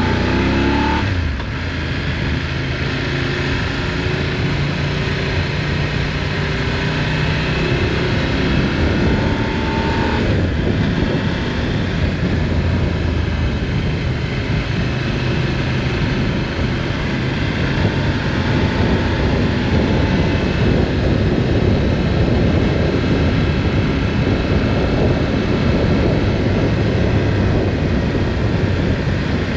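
Motorcycle engine running under way with wind rushing over the microphone; the engine note drops briefly about a second in, then engine and wind noise run on steadily.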